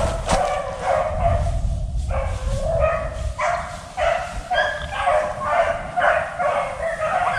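A pack of beagles baying in a steady run of calls, about two a second, while they trail a rabbit.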